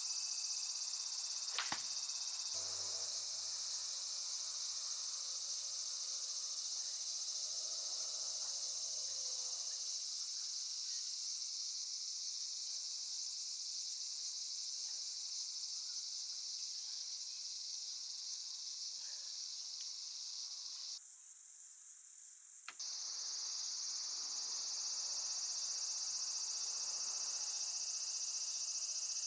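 Steady high-pitched insect chorus that cuts out for about two seconds roughly three-quarters of the way through, with a single sharp click near the start.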